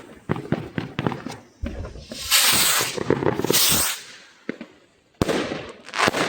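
Fireworks ball rockets going off: a run of sharp crackling pops, then a sudden loud bang followed by about two seconds of loud hissing in two surges. After a short lull, another sharp bang comes with more hissing and crackle near the end.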